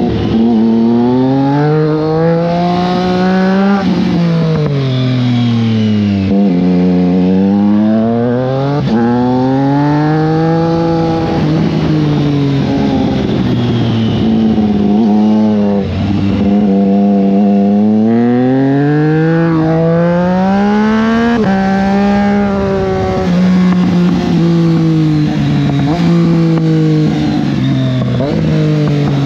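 Triumph Street Triple 660 S motorcycle's inline three-cylinder engine, heard from onboard, revving up through the gears again and again, its pitch climbing in long pulls and dropping back between them at each gear change and lift of the throttle.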